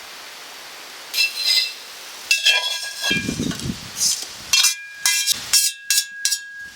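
A series of sharp clinks and rattles of hard objects handled together, several leaving a brief ringing tone.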